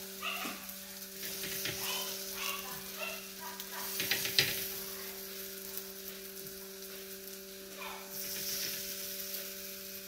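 Batter-coated brinjal slices sizzling in oil on a hot dosa griddle as more slices are laid down by hand, with small clicks and one sharper click about four seconds in. A steady low hum runs underneath.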